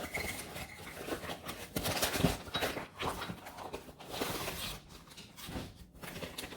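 Batter being stirred in a mixing bowl: a utensil scrapes and clicks irregularly against the bowl, and the sounds thin out near the end.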